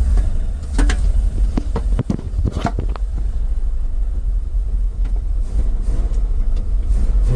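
Ford F-350 dump truck's engine running with a steady deep rumble and sounding healthy. A few sharp clicks and knocks come in the first three seconds.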